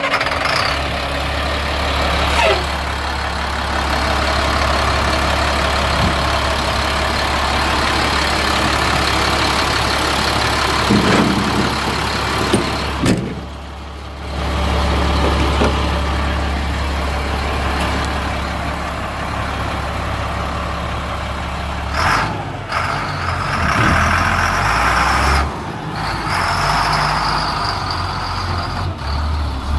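Diesel dump truck engine idling steadily just after being started, dipping briefly about 13 seconds in. From about 22 seconds the engine note becomes unsteady, and air hisses on and off.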